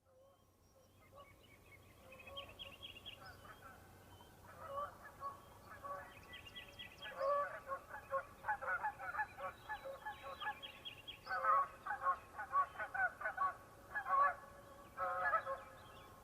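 A flock of geese honking, the calls faint at first and building into a dense, overlapping chorus about halfway through, with a few brief lulls.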